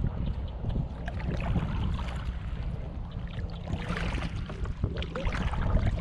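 Small boat being paddled across a lake: water splashing and lapping against the hull, with scattered small knocks and a brief louder splash about four seconds in, over a steady low rumble.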